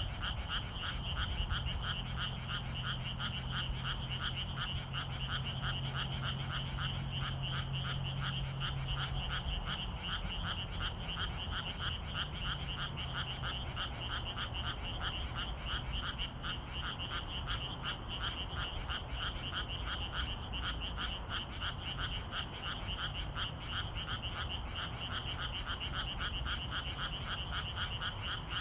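A dense chorus of frogs calling, a continuous rapid pulsing of croaks with no let-up.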